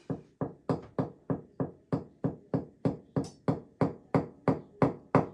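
A wooden axe handle knocked repeatedly against a hard surface, about four even knocks a second, to shake glue down into a crack in the handle's butt.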